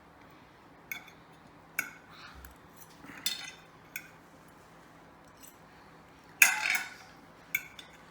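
Cutlery clinking and scraping on plates during eating: a handful of separate sharp clinks, with the loudest, longer scrape of metal on a dish about six and a half seconds in.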